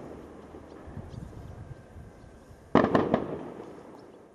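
Consumer fireworks battery firing aerial shots. The echo of one bang fades, then nearly three seconds in a quick cluster of about three sharp bangs goes off and rolls away in echo.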